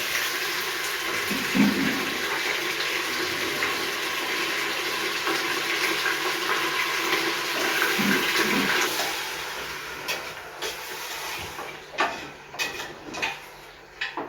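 Raw chicken pieces sizzling in hot oil and browned onions in a pressure cooker, a loud steady sizzle that dies down after about nine seconds. A few knocks of a spoon against the pot near the end.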